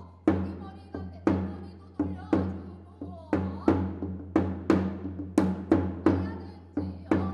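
Drum strikes in Korean shamanic ritual (gut) music over a low steady drone. The beats come about a second apart at first and quicken to two or three a second.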